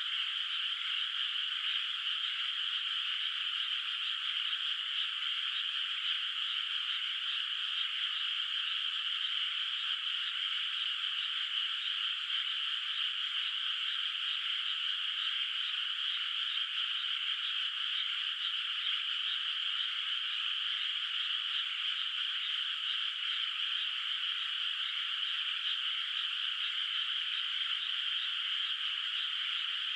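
A dense, steady chorus of frogs calling from a flooded rice paddy, many voices overlapping without a break and pitched fairly high.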